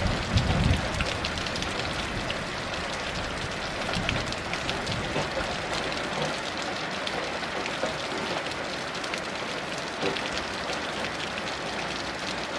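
Heavy rain falling steadily, a dense hiss full of individual drop splashes. A low rumble of thunder trails off in the first second.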